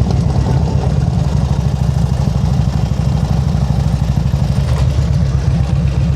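Motorcycle engine running steadily at low revs, heard from on the bike, with a fast, even low pulsing and no revving.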